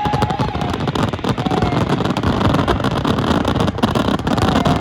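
Fireworks popping and crackling in quick, irregular bangs over a steady low rumble.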